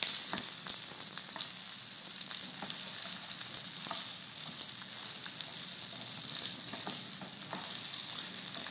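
Whole green chillies sizzling steadily in hot oil with mustard seeds in a nonstick pan, with scattered light taps and scrapes of a wooden spatula as they are stirred.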